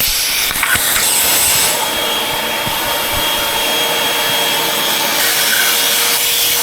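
Hoover upright vacuum cleaner running steadily, its motor holding a constant whine under a rough rubbing and scraping noise as it is pushed over the floor.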